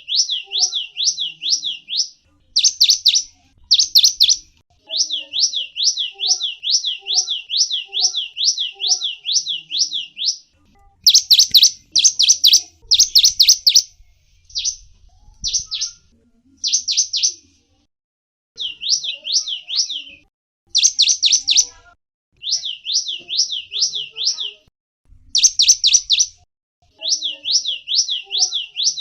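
Gelatik wingko, a small songbird, singing: phrases of high, sweeping notes repeated about three times a second, each phrase lasting a few seconds with short pauses between.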